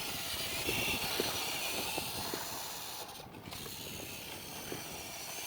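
Small electric RC truck motor and gears whining steadily, the pitch wavering with throttle, with light clicks from the drivetrain; the whine cuts out briefly about three seconds in, then resumes.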